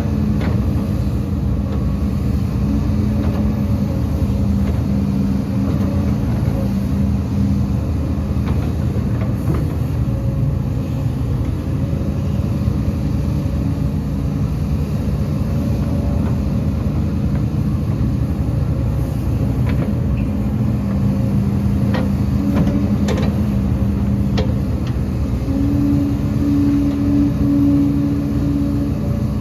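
Diesel engines of heavy earthmoving machinery (excavator and dump trucks) running steadily with a deep rumble. A few faint clanks come in the second half.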